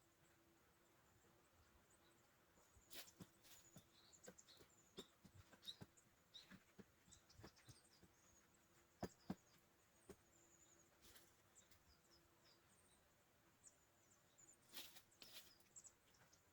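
Near silence, with faint high bird chirps and a scattering of light knocks and clicks, the sharpest two close together about nine seconds in.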